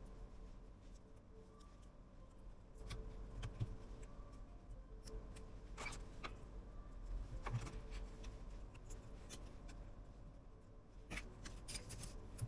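Sparse small clicks and taps from handling a phone and small repair tools, with a quick cluster of clicks near the end.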